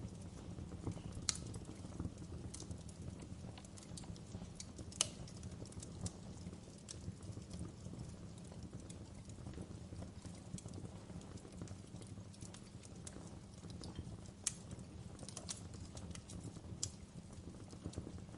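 Wood fire crackling in a fireplace: irregular pops and snaps over a steady low rumble, the sharpest snaps about a second in and about five seconds in.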